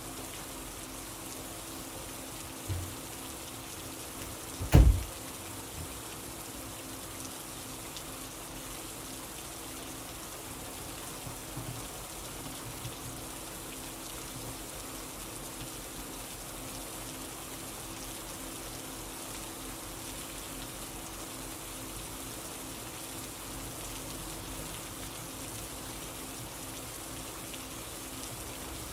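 Steady rain falling, an even hiss of drops with a faint steady hum beneath it. About five seconds in there is a single loud, sharp thump, with a smaller knock a couple of seconds before it.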